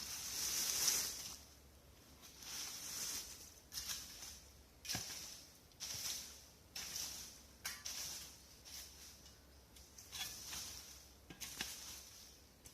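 Repeated rustling and crunching of fallen leaves and twigs, a swish roughly once a second, with a few sharp clicks in between.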